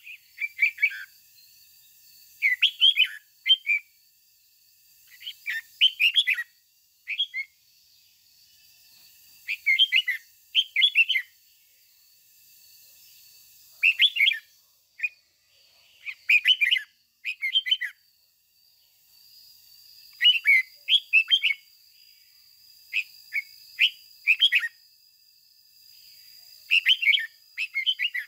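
Red-whiskered bulbul singing short warbling phrases of a few quick notes, one every second or two with brief pauses between. A faint steady high-pitched tone runs underneath and grows stronger about two-thirds of the way through.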